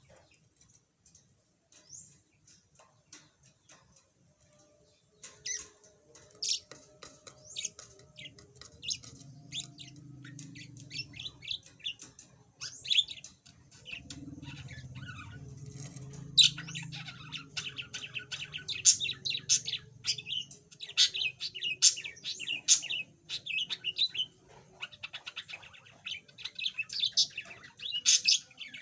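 Budgerigar chirping and chattering in quick high notes. It starts about five seconds in and grows busier in the second half.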